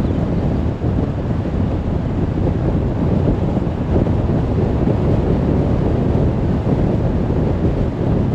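Car driving at speed on a motorway: a steady rush of tyre and wind noise, strongest in the low end.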